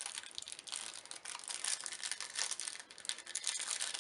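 Rustling and crinkling as Magic: The Gathering cards and their pack wrappers are handled: a continuous, dense, fine crackle of many small clicks.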